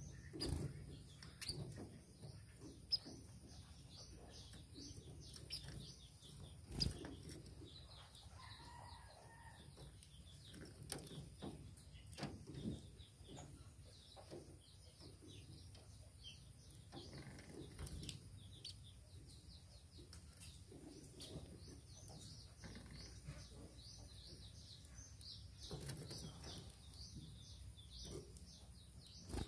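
Small pipits chirping: a steady stream of quick, thin, high chirps, with a few brief louder thumps now and then.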